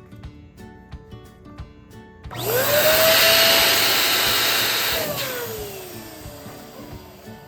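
Electric balloon inflator switched on about two seconds in, its motor whine rising quickly to a steady pitch over a loud rush of air as it blows up a balloon. It is switched off a few seconds later and winds down with a falling whine.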